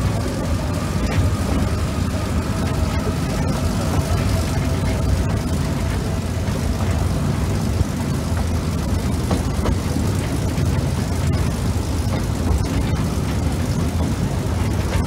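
Narrow-gauge passenger train running along the line, heard from aboard a carriage: a steady low rumble of wheels on rail with faint scattered clicks over the joints.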